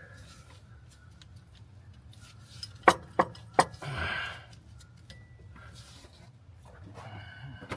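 Metal tools clinking: three sharp clinks a few tenths of a second apart about three seconds in, followed by a brief scraping rustle.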